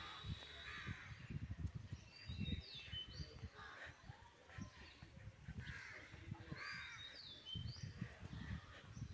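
Birds calling, with several short falling whistles among the calls, over faint irregular low thumps.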